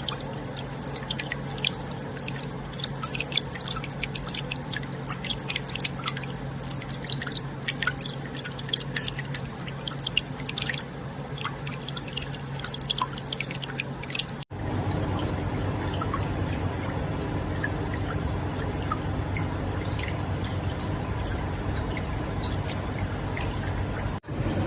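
Aquarium water dripping and trickling, many small drops over a steady low hum. About halfway through it cuts suddenly to a louder, steadier flow of water with fewer drips.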